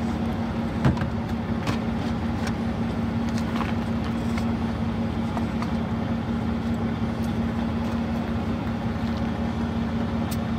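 Toyota Land Cruiser FZJ80's straight-six engine idling steadily, with one light knock about a second in.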